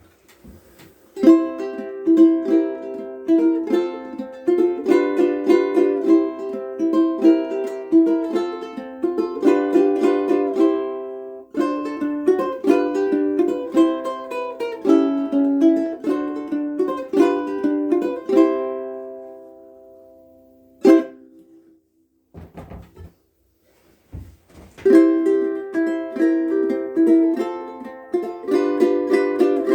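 KoAloha ukulele being played, a plucked melody over chords, in a small room. The playing stops at about 18 s and the last chord rings out, there is a single sharp stroke a few seconds later, then a few faint knocks, and the playing starts again about 25 s in.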